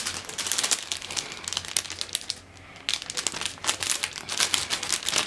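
Packaging being crinkled by hand in two bouts of crackling with a short pause between.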